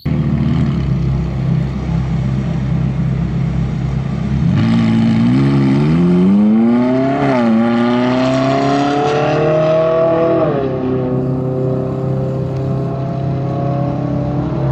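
Race car engine running steadily, then about four and a half seconds in revving up with rising pitch. It dips briefly around seven seconds, like a gear change, climbs again, and drops back near ten and a half seconds to a steady run.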